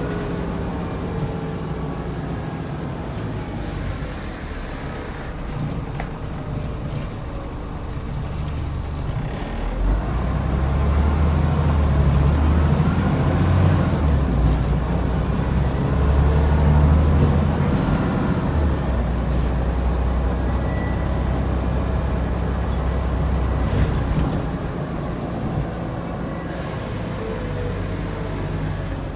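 Scania N94UD double-decker bus running on its DC09 diesel engine. The engine pitch rises and falls, and it gets louder from about ten seconds in. Air brakes hiss twice, once near the start and once near the end.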